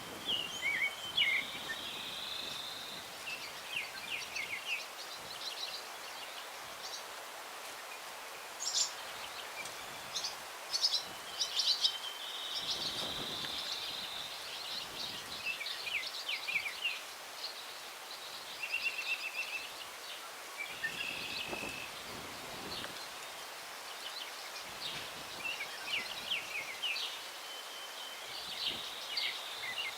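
Several songbirds singing and calling: quick chirps, trills and held whistled notes, overlapping throughout. Underneath is a steady hiss of breeze through the tree branches, swelling briefly a couple of times.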